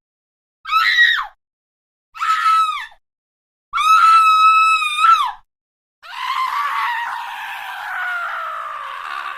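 The Wilhelm scream stock sound effect: a man's short, high-pitched cries of pain, heard as separate takes with silence between them. Three brief screams come first, each with a quick drop in pitch at the end. About six seconds in, a longer scream begins whose pitch slowly falls.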